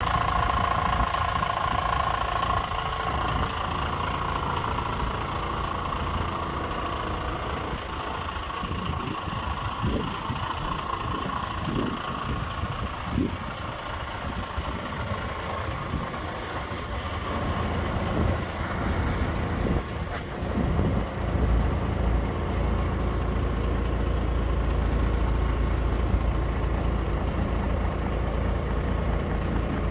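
Diesel engine of a Renault 110-150 4x4 fire truck running, with a steady high tone over it for the first ten seconds or so; the engine's low rumble grows louder about twenty seconds in.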